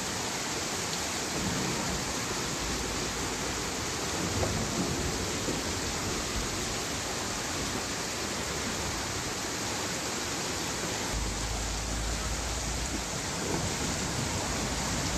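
Steady hiss of heavy rain and floodwater, with a low rumble a few seconds in and again past the middle.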